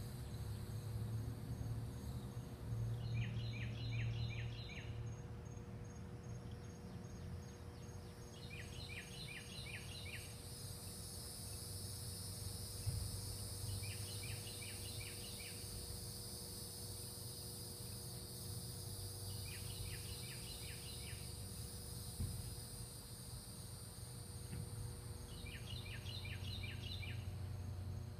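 A bird repeats a short song phrase of five or six quick notes about every five seconds, over a steady low hum. About ten seconds in, a steady high insect trill joins it.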